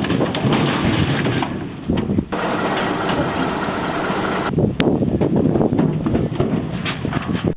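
Engine of a debris-collecting work boat running with a dense, rough noise, dipping briefly twice.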